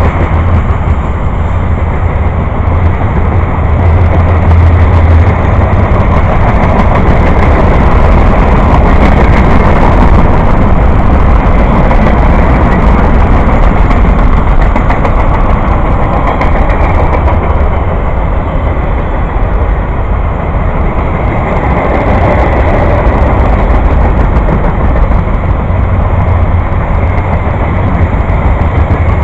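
A long train rolling past, a loud, steady rumble of wheels on rail.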